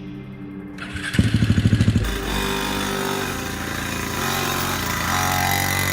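Motorcycle engine running, with a loud fast pulsing burst about a second in, then a fuller steady run.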